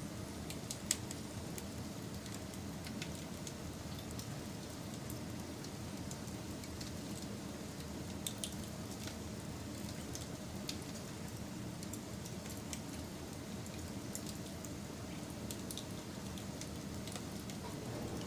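Wood fire burning: a steady low rush with scattered sharp crackles and pops, one louder pop about a second in and a few more together around eight seconds in.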